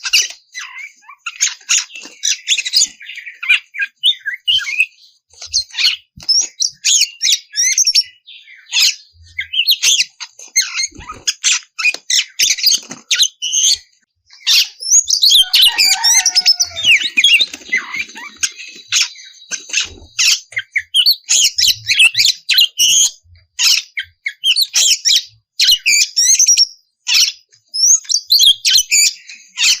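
Oriental magpie-robin (kacer) singing a loud, fast, varied song of whistled and harsh notes, with a brief pause about 14 seconds in.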